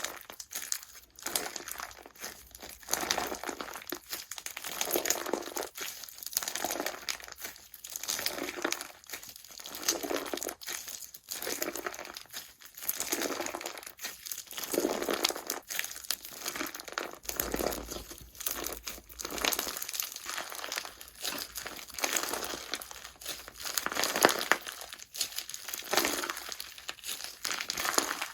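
Hands squeezing, pressing and stretching slime close to the microphone, giving a run of small crackles and pops in irregular bursts about once or twice a second.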